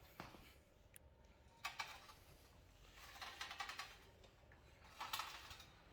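Near silence, with a few faint short rustles.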